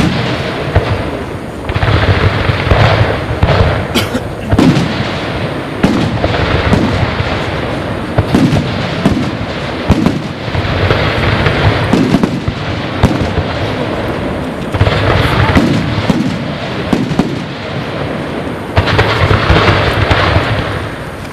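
Fireworks display: many sharp bangs over a continuous dense crackle. The sound swells into louder waves several times.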